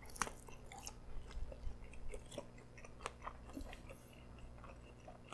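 Close-miked chewing of a piece of pretzel dog: irregular small crunches and wet mouth clicks.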